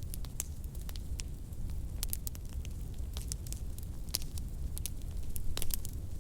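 Fireplace wood fire crackling: irregular sharp pops and snaps, several a second, over a steady low rumble.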